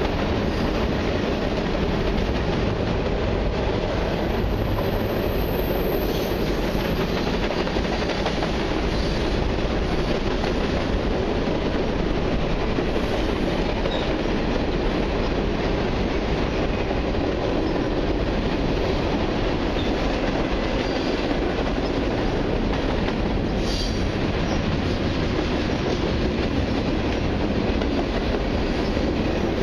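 Long mixed freight train's cars rolling past, a steady, unbroken rumble of steel wheels on rail.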